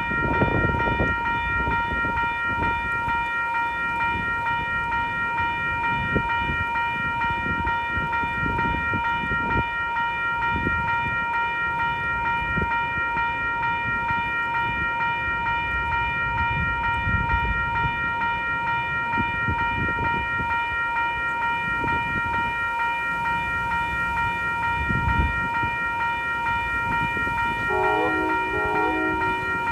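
Railroad scene with a train running and strong, gusty wind buffeting the microphone in irregular low rumbles. A steady high-pitched tone with evenly spaced overtones holds throughout.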